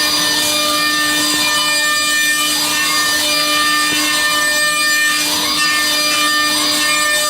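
Mazak HCR-5000 5-axis horizontal machining center milling metal: the cutter runs with a steady set of high tones over a hissing cutting noise, and a rise-and-fall sweep recurs about once a second as the tool works around the part.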